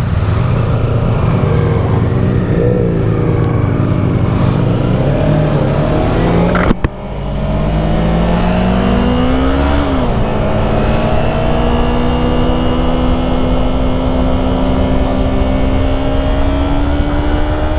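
Yamaha YZF-R3's 321 cc parallel-twin engine pulling away and accelerating through the gears, with wind noise. A sharp click and a brief drop come about seven seconds in, then the engine note climbs slowly and eases off near the end.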